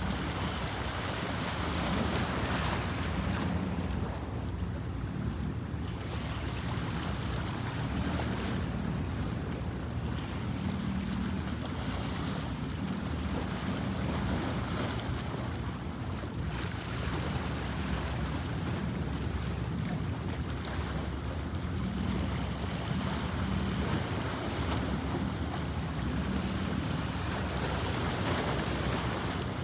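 Bosphorus sea waves washing in, swelling and fading every few seconds, over a steady low rumble with wind on the microphone.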